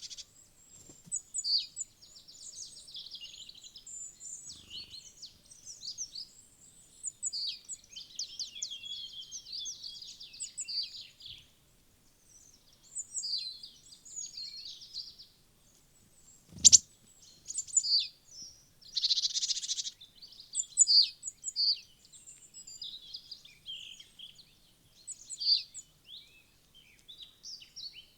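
Wild songbirds chirping and calling busily, many short high calls overlapping one after another. A single sharp knock cuts through about two-thirds of the way in.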